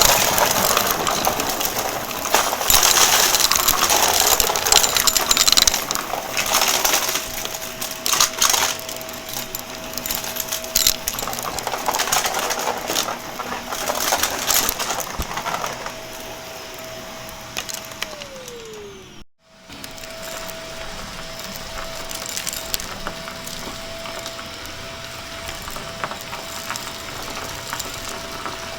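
Shark vacuum cleaner running and sucking up crunchy debris, with dense crackling and rattling over a steady motor whine, heaviest in the first half. About eighteen seconds in the motor's whine drops in pitch and cuts off, then after a brief silence it is running steadily again with lighter crackling.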